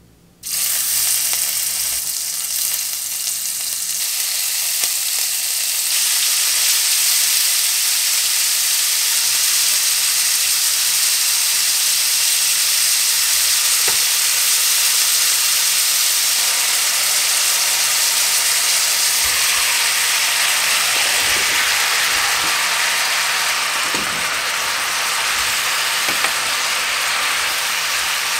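Beef cubes, then chopped vegetables, frying in hot bacon fat in a pot: a loud, steady sizzle with spattering oil that starts suddenly about half a second in. A few light knocks come from the utensils turning and stirring the food.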